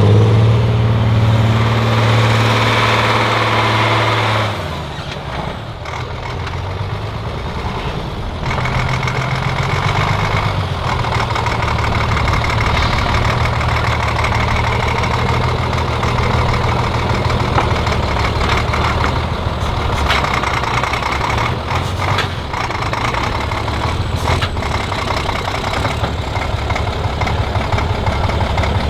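Heavy off-road trial truck's diesel engine running, loud for the first four seconds or so, then dropping in revs and level to a lower, steady run.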